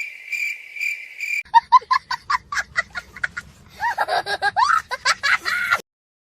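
A cricket-chirp sound effect for about a second and a half, then high-pitched cartoon laughter in quick rhythmic bursts, cutting off suddenly near the end.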